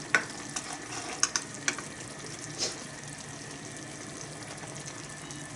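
Kimchi stew simmering in a small iron pot with a steady bubbling sizzle, while a utensil clicks against the pot several times in the first three seconds as ingredients are lifted out.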